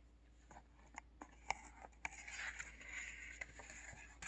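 Faint handling noises: scattered light clicks and a soft scraping rustle through the middle, ending in a sharper click.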